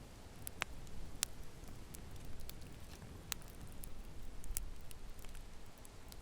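Fireplace fire crackling: scattered sharp pops over a steady low rumble and hiss, the loudest pop about a second in.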